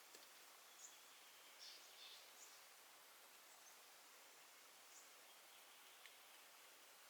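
Near silence: faint outdoor ambience with a soft steady hiss and a few faint ticks and small chirps.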